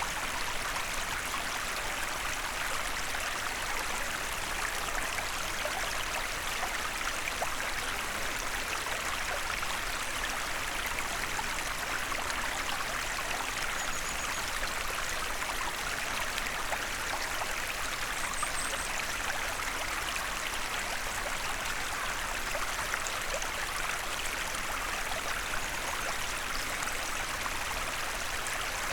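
Small forest stream flowing steadily: an even, unbroken rush of running water.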